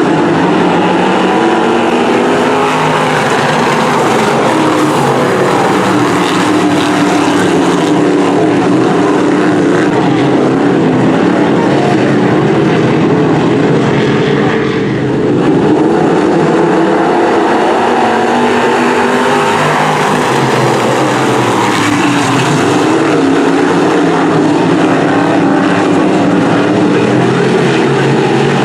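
Several dirt-track Sportsman race cars running at racing speed, their engines sounding together, with pitch rising and falling as the cars come and go. The sound dips briefly about halfway through.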